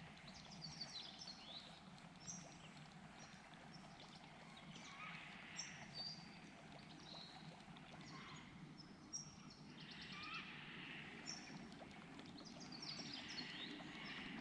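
Faint birdsong: many short, high chirps and whistles scattered throughout, over a low, steady background hush.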